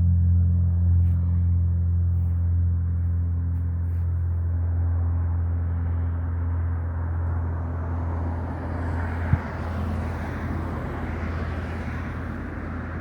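Light propeller aircraft's piston engine humming steadily, slowly fading away, with a growing rush of noise in the second half and a single sharp click about nine seconds in.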